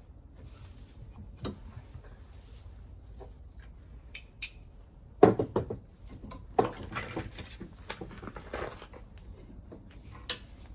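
Metal hand tools and small engine parts clinking and knocking as they are handled, in scattered irregular strikes, with the loudest knock about five seconds in.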